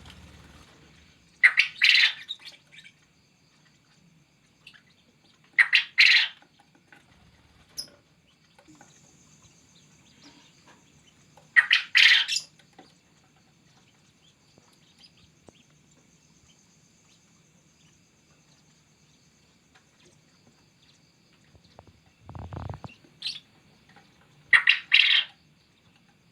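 Male quail crowing: four loud, short calls of about a second each, spaced several seconds apart, with a dull thump shortly before the last one.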